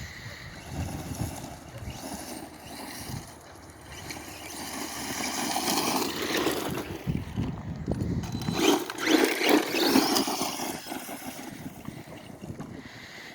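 Redcat RC truck's motor whining as it drives over dirt, rising and falling in pitch as it speeds up and slows, twice, loudest about nine to ten seconds in.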